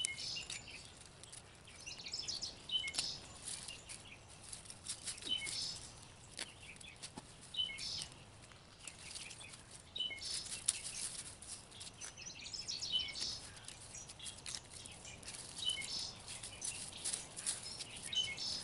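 A songbird singing short chirpy phrases every two or three seconds over an irregular crackling rustle and scraping from garlic being dug out of the soil.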